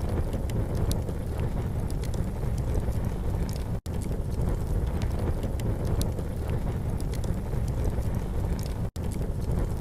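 Campfire crackling with small sharp pops over a steady low rumble. The sound cuts out for an instant twice, about four and nine seconds in.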